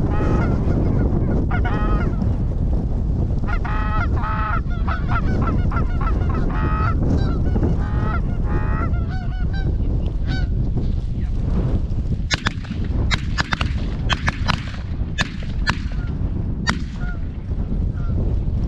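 Canada geese honking, a rush of repeated calls through the first ten seconds or so, over a steady low rumble. In the second half come a string of sharp clicks.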